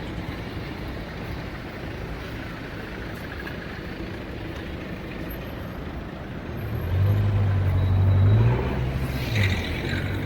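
City road traffic at a crossing. About seven seconds in, a heavy vehicle's engine comes close and grows louder, a low hum that wavers in pitch.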